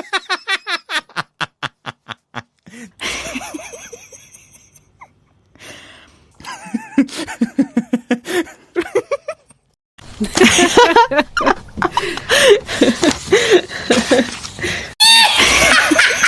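People laughing in bursts of quick pulses, across several short clips joined by abrupt cuts; a loud, high-pitched stretch of voice comes near the end.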